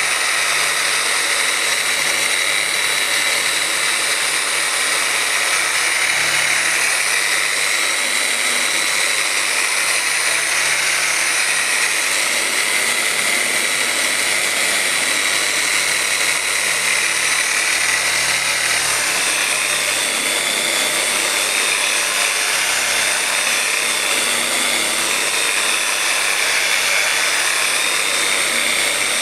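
Dynabrade random orbital polisher with a microfiber pad running steadily at speed 5, buffing out 4000-grit sanding marks on car paint. Its whine shifts slightly in pitch about two-thirds of the way through.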